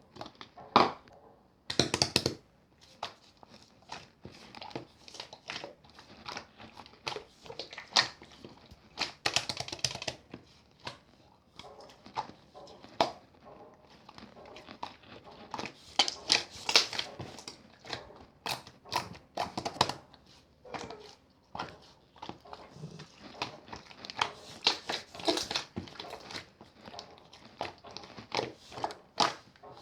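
Clear slime being pressed, stretched and folded by hand, giving irregular sticky crackles and clicks, thicker in a few busier stretches.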